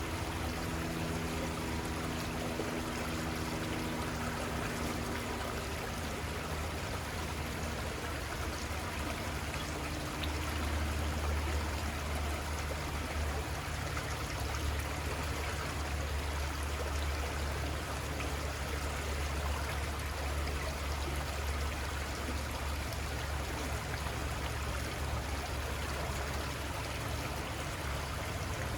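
Little Conestoga River flowing: a steady rush of running water with a low rumble underneath.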